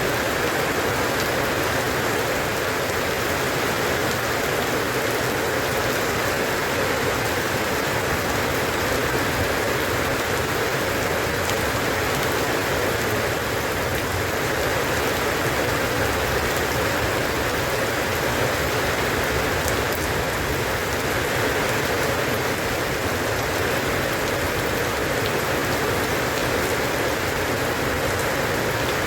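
Steady rain falling, an even hiss with dense patter of drops on a surface.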